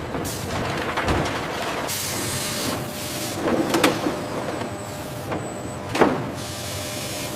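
Factory machinery running, with bursts of air hissing and a few sharp knocks, the loudest about six seconds in.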